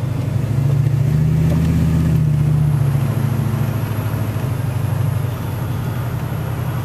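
Car engine and road noise heard from inside the cabin while driving, a steady low hum that grows louder about a second in and eases off again near the end.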